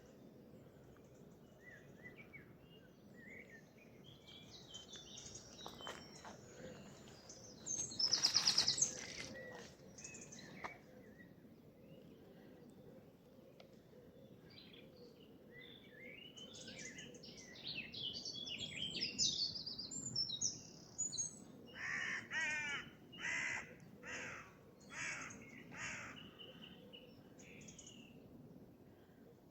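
Several songbirds singing at once. A loud, fast trill stands out about eight seconds in, and a run of six or so short repeated calls follows near the end.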